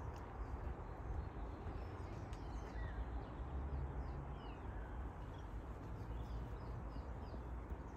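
Birds chirping in bare trees: short, high calls, each sliding in pitch, clustered in the middle of the stretch, over a steady low rumble.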